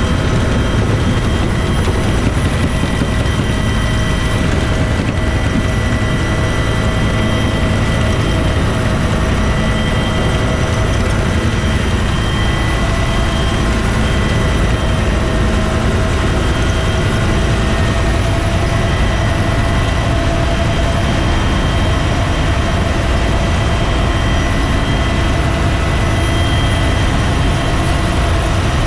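Bell UH-1 Huey helicopter's rotor and turbine engine running steadily: a loud, dense rumble with steady whining tones above it.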